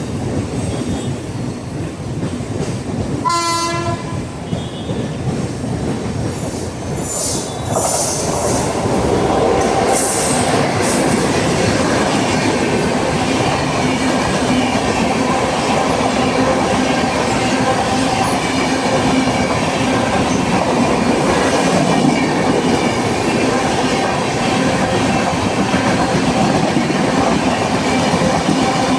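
Indian express train passing at speed through a station: a short locomotive horn blast about three seconds in, then from about eight seconds the louder, steady noise of the wheels and coaches running past on the rails.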